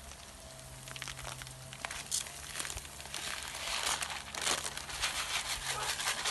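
Plastic rice packet crinkling and rustling as it is handled and torn open, with a dense irregular crackle that thickens from about three seconds in.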